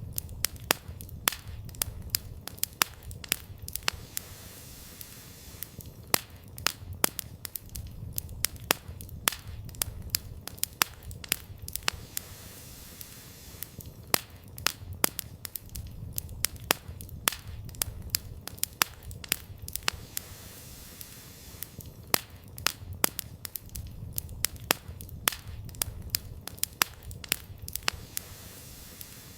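Wood campfire crackling, with frequent sharp pops and snaps from the burning firewood at an irregular pace of several a second, over a low steady rumble of the flames.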